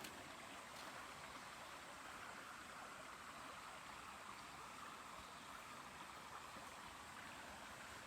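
Faint, steady rush of a mountain stream flowing over rocks.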